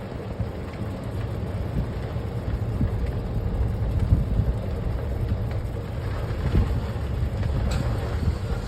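Vehicle driving slowly: a steady low engine and road rumble.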